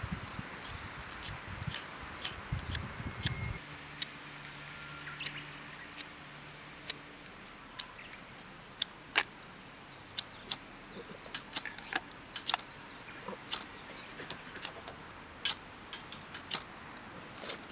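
Oak firewood crackling as it burns, with sharp pops coming irregularly, about one or two a second.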